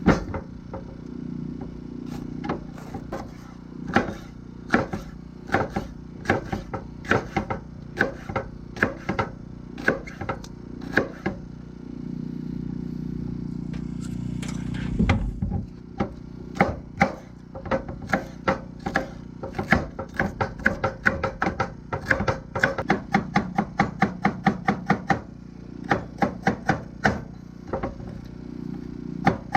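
Knife chopping celery and bell pepper, a run of sharp knocks on the board that speeds up into quick bursts of about three or four cuts a second in the second half. A steady low hum runs underneath.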